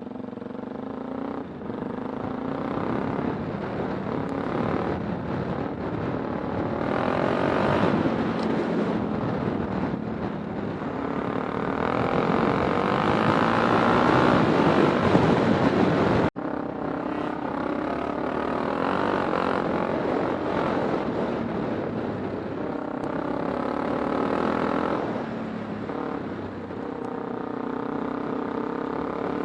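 Kawasaki Super Sherpa's single-cylinder four-stroke engine running while the bike is ridden, its pitch rising and falling with the throttle, over wind and road noise. The sound cuts out for an instant about halfway through.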